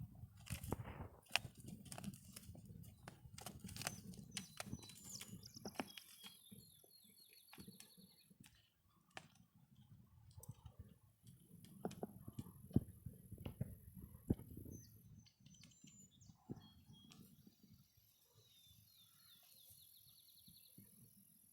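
Faint outdoor ambience: a small songbird sings a short, rapid trill twice, over scattered light clicks and a low rumble that fades away.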